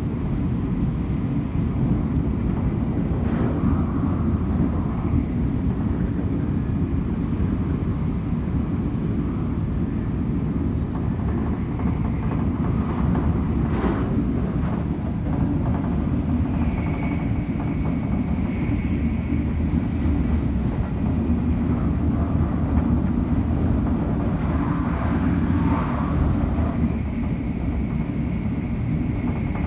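Shinkansen bullet train running at speed, heard from on board: a steady low rumble of the ride with occasional light rattles, and a faint high whine that comes and goes.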